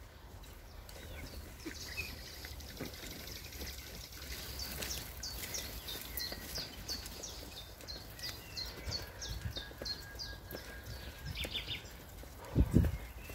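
A songbird singing a long series of short, evenly repeated high notes, about two a second, over a low outdoor rumble. A few loud low thumps come near the end.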